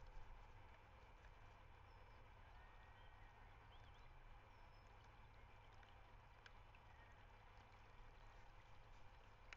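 Near silence: a faint outdoor background with a steady low rumble and a few faint, distant bird chirps.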